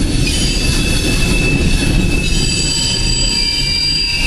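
Freight train of coal cars rolling past: a steady low rumble of the cars on the track, with thin high-pitched squealing tones from the steel wheels held over it.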